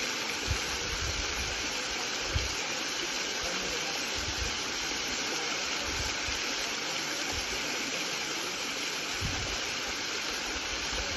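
Spring-fed waterfall splashing and rushing steadily, with a few brief low bumps.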